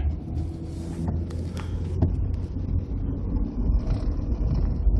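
Car driving slowly, with a steady low rumble of engine and road noise heard from inside the cabin.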